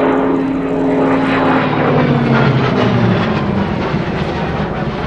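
Hawker Fury Mk I propeller fighter flying past under power. Its engine note drops in pitch about two to three seconds in as it passes, then eases slightly.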